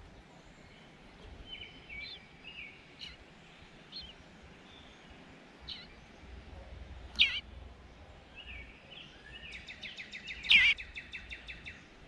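Eastern bluebirds calling: scattered short chirps and soft warbled notes, two louder sharp downslurred calls, one a little past halfway and one near the end, and a rapid chattering run of about ten notes a second just before the end.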